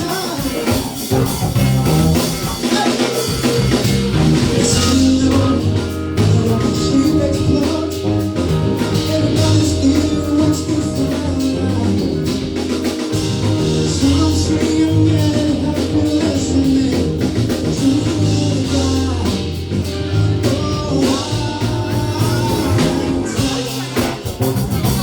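A band playing a rock cover: guitar, bass and drum kit, with singing.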